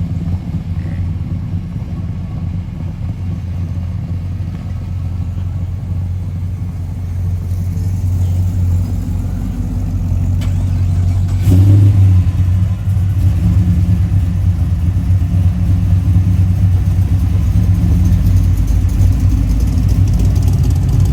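Car engine running with a deep, steady low note. It grows louder about halfway through, with a brief surge near the middle.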